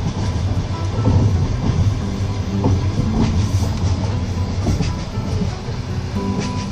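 Passenger train carriage running along the track, heard from inside the coach: a steady low rumble with the clack of the wheels over the rail joints.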